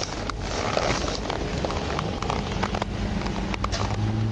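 A vehicle engine runs with a steady low hum that grows stronger over the last second or two, under rough noise and scattered clicks.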